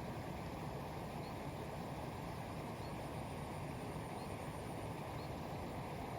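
Steady outdoor background noise, with a faint, short high chirp repeating about every second and a half.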